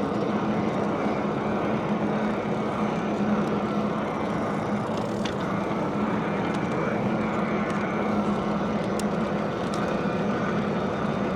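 Steady wind and road noise from riding an e-bike, with a constant low hum running underneath.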